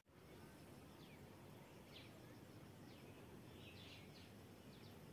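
Faint outdoor ambience with a bird's short, high chirps that slide downward, about one a second, with a quick cluster of them near the end.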